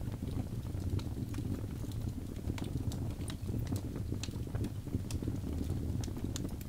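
Wood fire of birch logs burning in a fireplace: a steady low rush of flame with many irregular small crackles and sharp pops scattered throughout.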